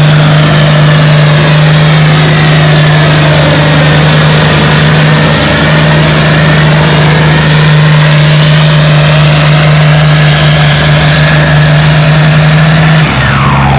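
Farm tractor engine running hard under load while pulling a weight-transfer sled. It is a loud, steady drone whose pitch drops suddenly near the end.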